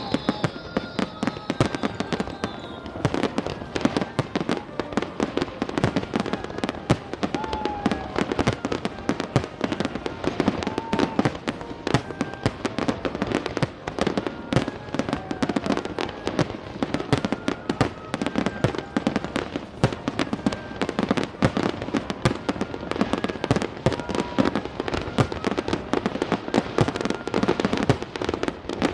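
Aerial fireworks display: a dense, continuous barrage of bangs and crackles, many shells bursting every second.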